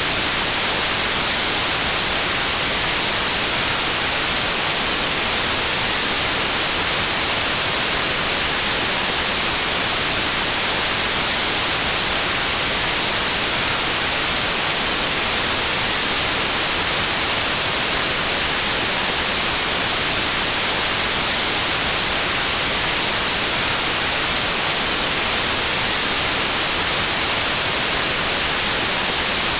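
Steady white noise: an even, unchanging hiss, brightest in the highs, with no events or variation.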